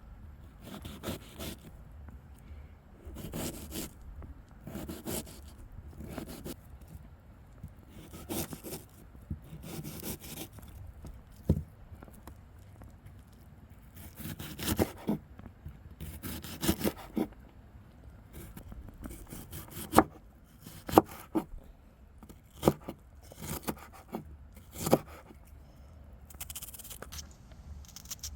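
Repeated scraping strokes, irregular and roughly one a second, with a few sharp clicks or knocks in the second half.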